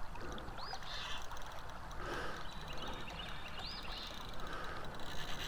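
Steady background hiss of flowing river water with a few short, high chirps, one near the start and another about two thirds through.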